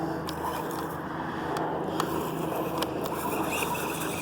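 Hosim S911 electric RC truck driving over a grassy yard: a low motor hum under a noisy rustle of tyres, with a few sharp clicks and knocks as it bounces along.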